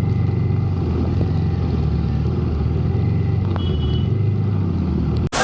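Honda CB350's single-cylinder engine running steadily under way, a low rumble that cuts off abruptly near the end.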